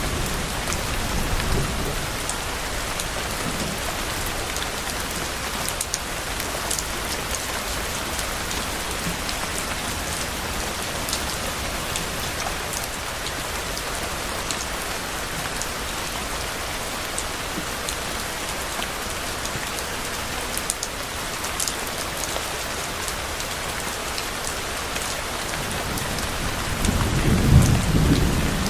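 Steady rain falling on a surface, with scattered close drops ticking through it. Low rolling thunder rumbles at the start, fades within the first couple of seconds, and swells again near the end.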